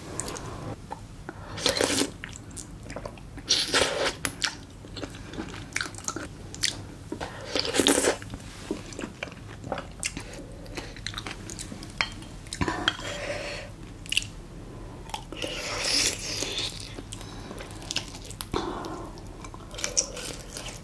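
Close-miked eating sounds: intermittent biting and chewing of spicy braised monkfish (agujjim), with the odd sharp clink of a spoon against a glass bowl.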